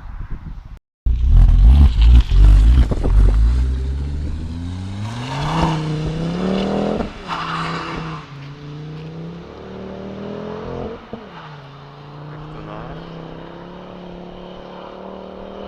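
Volvo S60 2.4T turbocharged inline-five with a de-catted 3-inch downpipe and Simons cat-back exhaust, loud under acceleration. Its pitch rises steadily for about six seconds and drops sharply as the throttle closes or a gear is changed, then rises briefly again. It then settles to a steady exhaust drone with a couple of short blips.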